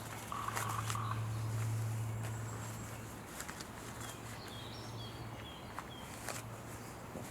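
Campfire crackling in scattered sharp pops over a low steady hum. In the middle a bird calls a quick run of about five short chirps.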